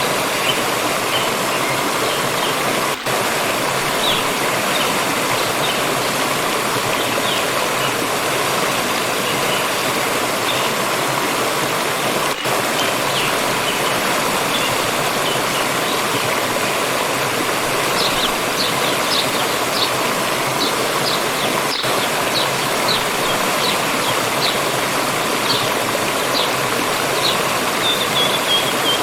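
Steady rushing and splashing of a forest stream. Small bird chirps sound faintly above the water, coming more often in the second half and ending with a short falling trill. The sound cuts out for an instant a few times.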